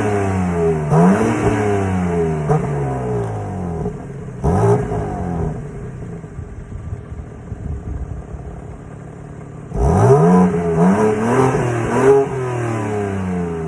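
S58 engine being revved in short throttle blips, each sharp rise in pitch falling back, with a few seconds of steady idle in the middle before another quick series of blips near the end.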